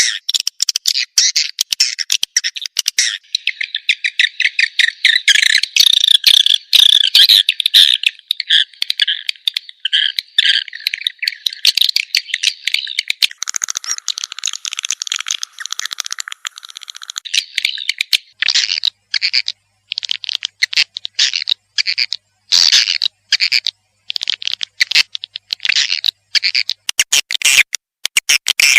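Swiftlet lure-call recording (suara walet panggil): edible-nest swiftlets twittering in rapid, dry, high chirps and clicks, a dense buzzing trill through the first half, then broken into short bursts of chirps with gaps. It is the sound played from swiftlet houses to call the birds in to roost.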